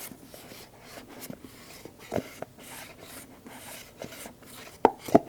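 Fingers scratching, rubbing and tapping on stiff cardboard Apple product boxes, with scattered light taps and two sharper knocks near the end.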